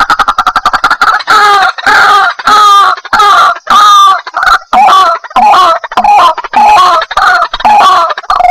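White-breasted waterhen calling loudly. A quick run of short clicking notes for about the first second settles into repeated harsh, wavering 'kru-ak' notes, about two a second.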